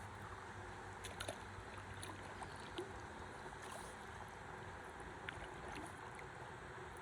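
River water lapping and trickling around a stand-up paddleboard drifting on a calm river, with a few faint small knocks or splashes.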